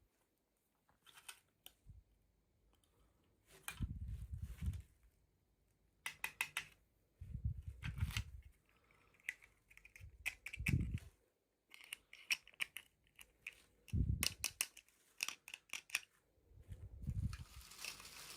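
Hands handling and opening toy packaging: irregular clicks, rustling and tearing, with a dull thump every few seconds.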